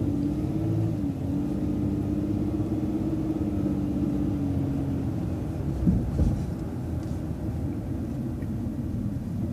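City transit bus moving slowly, its engine and drivetrain running with a steady low rumble and a held whine that fades out about five seconds in. A brief thump about six seconds in.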